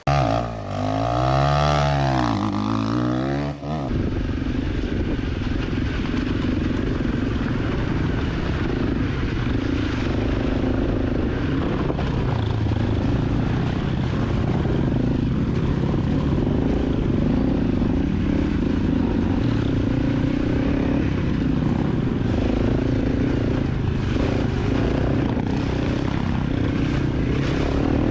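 250 cc dirt bike engine running steadily while riding, with wind and trail noise. It opens with a sweeping, wavering whoosh that cuts off abruptly about four seconds in.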